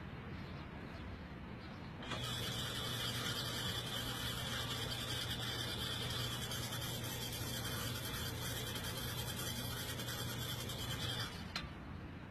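A steady mechanical hiss with a low hum and a high whine switches on abruptly about two seconds in, runs evenly, and cuts off suddenly near the end, followed by a single click.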